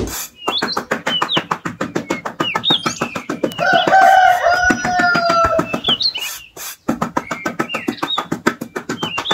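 A rooster crows once in one long call, from about three and a half to six seconds in, while small birds chirp throughout. Under them runs a fast series of scratchy strokes as a flat metal scraper smooths sand.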